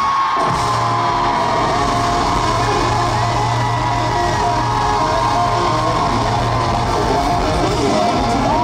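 Live band music played through a concert hall's sound system: a long high note held for several seconds over the full band, taken up again near the end, with fans yelling over it.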